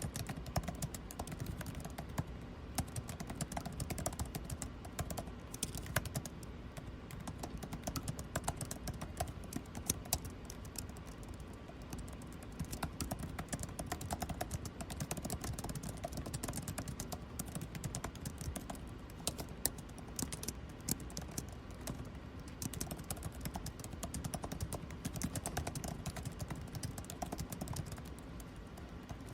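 Continuous typing on a computer keyboard, a rapid, irregular run of keystroke clicks, over the steady low hum of air conditioning.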